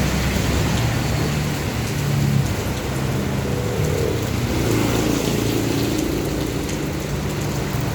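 Steady rain falling, an even hiss of drops, with a low steady hum underneath.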